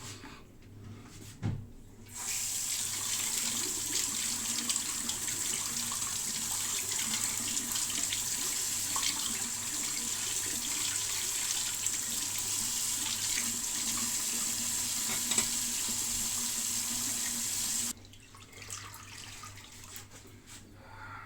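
Tap water running steadily into a sink, turned on about two seconds in and shut off sharply near the end, after a short knock just before it starts.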